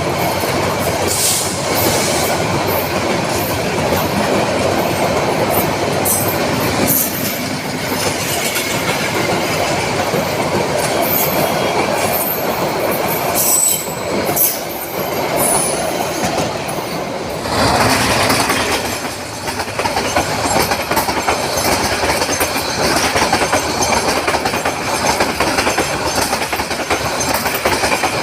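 Train running on rails: steady noise of the cars with brief high-pitched wheel squeals in the first half, and the sound changes about two-thirds of the way through into a more even rattle.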